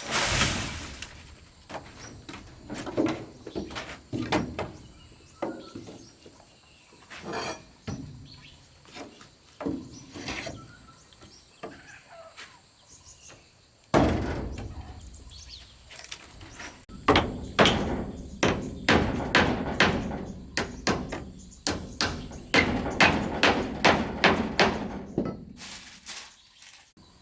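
Wood being struck by hand: scattered knocks and thuds, then a loud hit about halfway, followed by a steady run of blows about two a second that stops shortly before the end.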